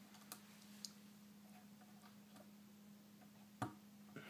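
A few faint, irregular clicks of plastic Lego pieces being handled, the sharpest about three and a half seconds in, over a steady low hum.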